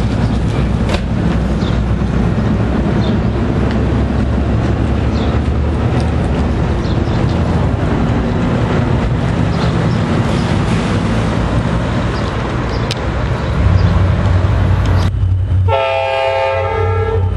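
A diesel-hauled commuter train passes close by with a steady rumble of wheels on rail, scattered clicks and a low engine drone. About fifteen and a half seconds in, a multi-chime train horn sounds one blast of about a second and a half.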